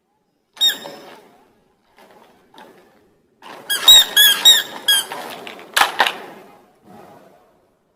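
A squeaky toy squeezed: one squeak, then a quick run of about six squeaks within a second or so, followed by a sharp knock.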